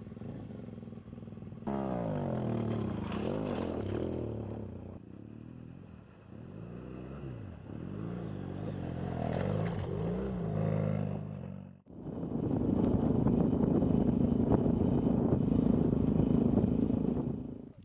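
Single-cylinder motorcycle engine (Yamaha XT660Z Ténéré) riding off-road, its pitch rising and falling again and again as the rider works the throttle and gears. About twelve seconds in it changes abruptly to a steadier, louder rush of riding noise.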